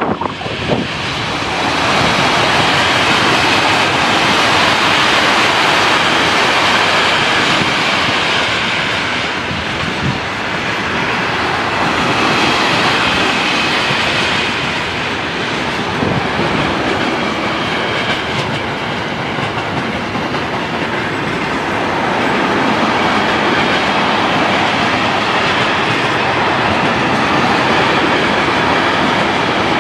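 SNCB class 13 electric locomotive hauling a long container freight train past at speed, then the container wagons rolling by. Loud, steady noise of wheels running on the rails throughout.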